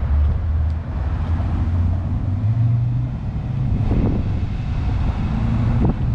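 A car engine running at a low, steady speed, its pitch stepping up a little about two and a half seconds in, with two short knocks near the middle and end.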